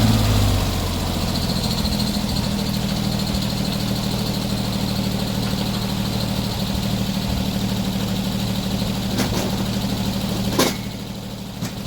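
Sawmill engine idling steadily after dropping from a higher speed in the first half second, with a sharp knock or clack near the end.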